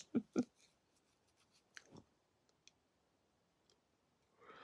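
A pause in speech: a few short mouth clicks at the start, then near silence, and a soft intake of breath near the end.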